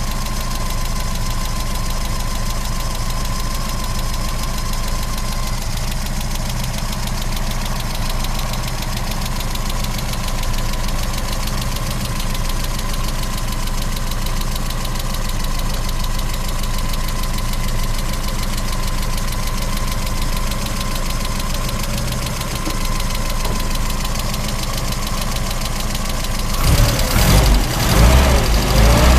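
Austin Mini's tuned MG 1300 cc A-series four-cylinder engine idling steadily after a cold start. Near the end the sound turns louder and uneven for a couple of seconds.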